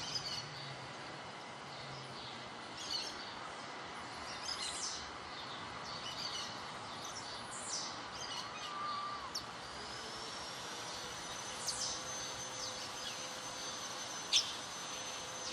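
Steady hiss of rain falling on plants, with birds chirping in short descending calls every second or two. A thin, steady high tone comes in about two-thirds of the way through.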